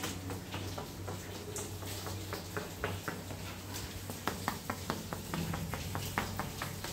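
Light, irregular tapping on ceramic wall tiles with a hard tool, sounding them for hollow voids in the mortar behind. A low steady hum sits underneath.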